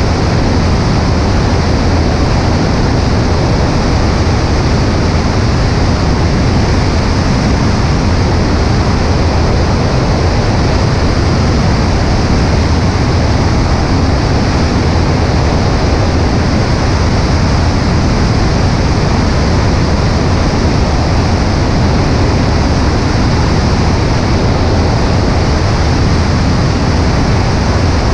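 Cessna 140A light aircraft's engine droning under a loud, steady rush of wind over a microphone mounted on the right wing, in flight.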